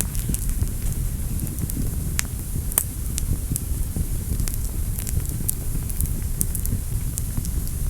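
Fireplace fire burning: a steady low rumble of flames with frequent sharp crackles and pops at irregular intervals, one of the loudest just under three seconds in.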